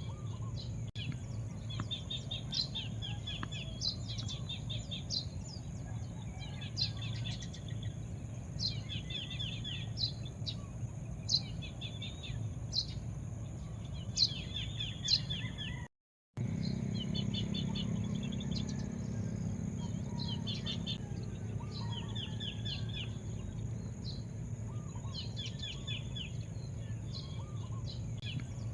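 Birds chirping, one repeating a short rapid trilled phrase every second or two with sharp single chirps between. Under it run a steady high whine and a low outdoor rumble. The sound cuts out for a moment about halfway through.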